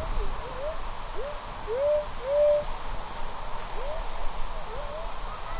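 Minelab metal detector's audio giving about nine short, rising mid-pitched tones as the search coil sweeps back and forth over wet beach sand, two of them held a little longer about two seconds in. A low rumble runs underneath.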